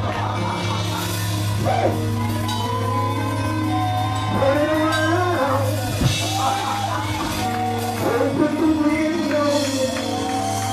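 Live gospel praise music: voices singing long held, swooping lines over a steady, sustained low instrumental tone, with drums.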